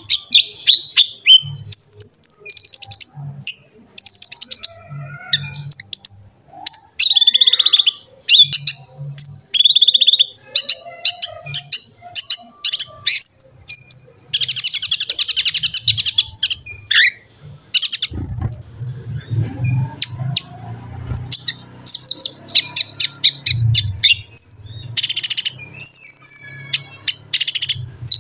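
Konin (kolibri ninja) sunbird singing in full voice: rapid high chirps, twitters and fast trills with almost no pause. A low rumble sits underneath and grows louder for a few seconds just past the middle.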